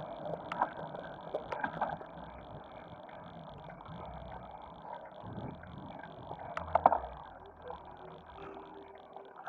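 Bicycle rolling downhill: steady road and wind noise with a few sharp knocks, loudest about seven seconds in.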